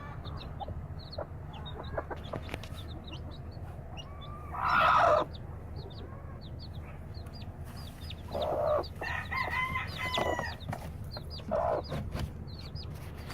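Newly hatched chicks peeping in quick, high little cheeps throughout, with louder chicken calls from the hen about five seconds in and again over the latter part, over a steady low hum.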